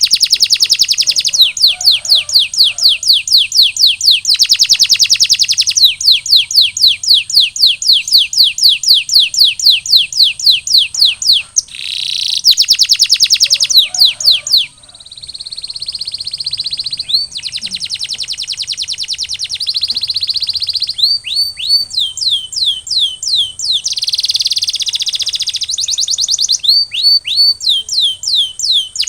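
Canary singing: long runs of rapid repeated notes, each sweeping down in pitch, broken by a softer, smoother trill around the middle.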